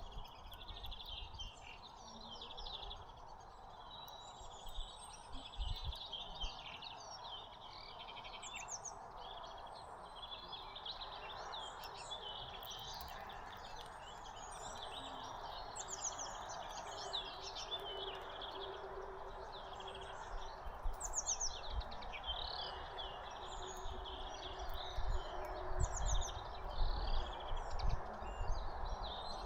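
Small birds at a feeder chirping continuously, many short calls overlapping, over a steady background hum of outdoor noise.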